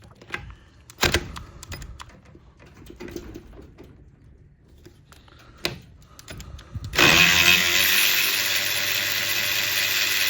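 A few light knocks and clicks of tools against the engine, then about seven seconds in a power wrench starts and runs loud and steady for nearly four seconds, unscrewing a torque-converter bolt through the flex plate's inspection hole.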